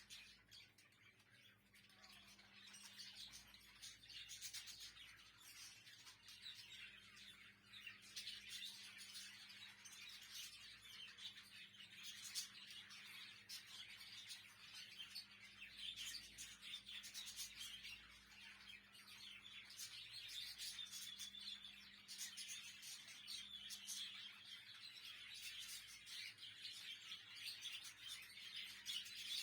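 Faint, continuous chatter of a flock of budgerigars, many birds chirping at once.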